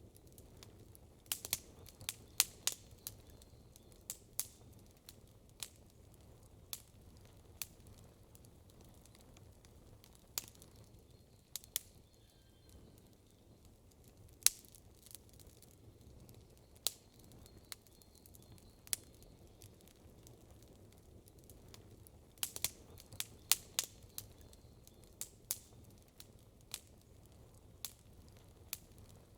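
Wood campfire crackling, with irregular sharp pops and snaps over a faint low rumble. The pops come in two dense flurries, one near the start and one about three quarters of the way through, with single snaps scattered between them.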